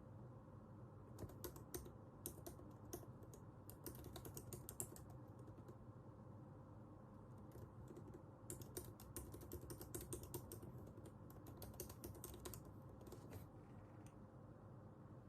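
Faint typing on a computer keyboard: two runs of quick key clicks with a pause of a few seconds between them.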